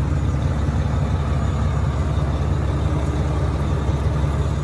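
A large truck's diesel engine idling: a steady low rumble.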